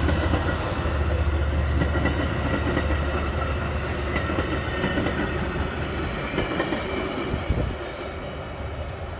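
Passing passenger train rumbling along the rails with wheel clatter, growing fainter over the last few seconds as it moves away.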